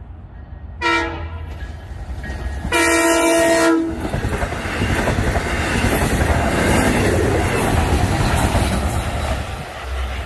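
Long Island Rail Road train horn sounds a short chord, then a longer, louder one: the closing short-and-long of the grade-crossing horn signal. The train of bilevel C3 coaches then rolls past close by with a loud, steady rumble and clatter of wheels on rail.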